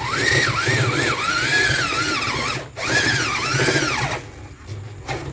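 Electric drill boring into a fridge body, its motor whine rising and falling as the trigger is worked, with a short pause partway through, then stopping about four seconds in.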